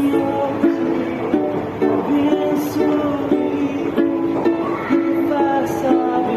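A small plucked string instrument playing an instrumental passage of quick picked notes and chords in a steady rhythm.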